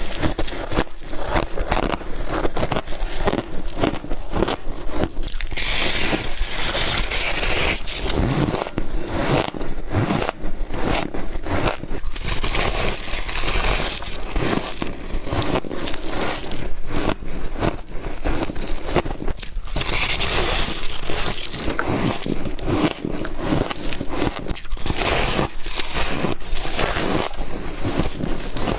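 Humidifier frost being bitten and chewed close to the microphone: a dense, continuous run of crisp crunches and crackles with some scraping.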